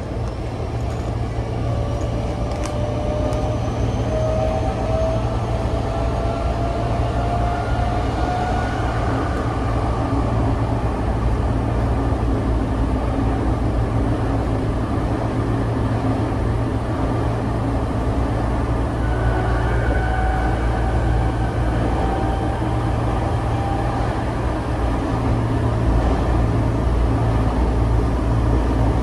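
Tokyo Metro 05 series commuter train running, heard from inside the passenger car: a steady low rumble of the wheels on the rails. Over it, a thin motor whine rises slowly in pitch in the first ten seconds as the train gathers speed, and rises again briefly about twenty seconds in.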